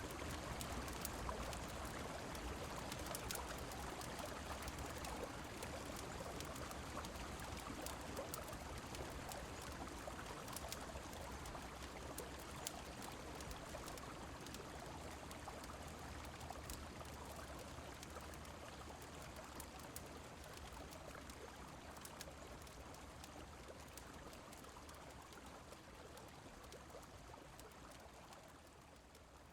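Steady rushing of a river mixed with rain, with scattered faint crackles of a fireplace. The whole sound slowly fades out.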